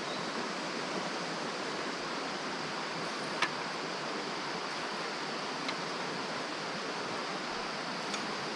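Mountain stream water running steadily over rocks. A single sharp click sounds about three and a half seconds in.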